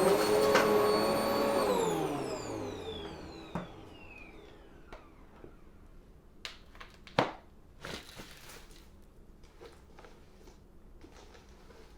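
Upright vacuum cleaner switched off about a second and a half in, its motor whine falling in pitch and fading away over a couple of seconds. Then come scattered light clicks and knocks, the loudest about seven seconds in.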